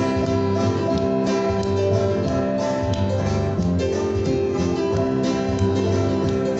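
Instrumental break of a live gospel band, led by strummed guitar with bass, between sung verses.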